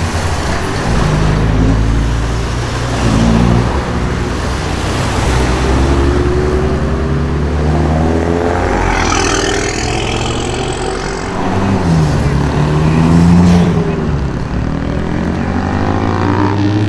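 Several modified car engines idling and revving as the cars drive out, their pitch rising and falling, with a high whine that climbs about nine seconds in and then fades.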